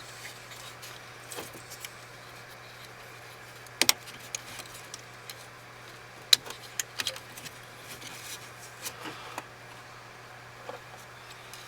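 Scattered small clicks and rattles of hands working plastic wiring connectors and dash trim, with two sharper clicks about 4 and 6 seconds in, over a steady low hum.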